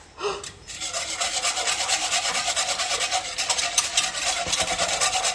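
Fast, even scraping strokes of a utensil mixing custard ingredients by hand against the side of a bowl or pot. The strokes start about a second in and carry on steadily.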